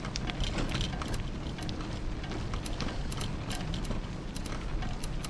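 Bicycle being ridden, heard through a camera strapped to the bike: many quick, irregular ticks and rattles over a steady low rumble from the tyres on the path.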